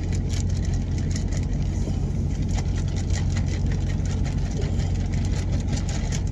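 Steady low hum of an idling truck engine heard inside the cab, with light clicks over it.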